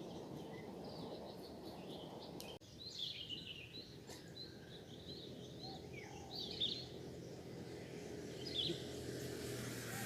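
Small birds chirping in short, scattered calls over a steady low outdoor hiss. The hiss drops away abruptly about two and a half seconds in.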